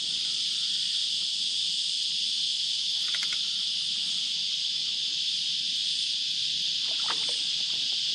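Cicada chorus: a steady, high-pitched drone, with two faint short sounds about three and seven seconds in.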